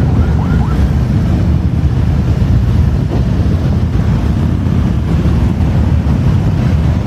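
Steady low rumble of wind buffeting the microphone, mixed with motorcycle engine noise. A few faint short rising whistles sound right at the start.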